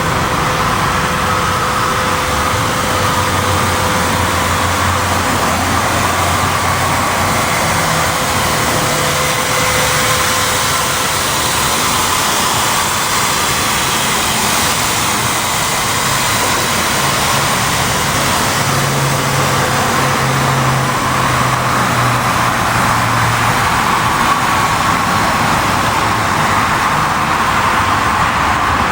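A motor vehicle running steadily under a loud, even rushing noise, its low engine hum shifting in pitch now and then.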